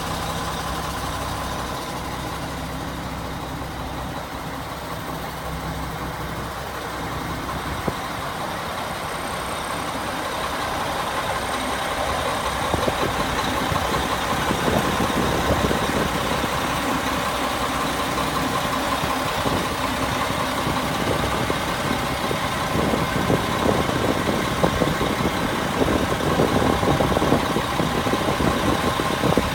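1999 Mack RD690S truck's diesel engine idling steadily. From about twelve seconds in it runs a little louder, with a busier clatter of knocks over the idle.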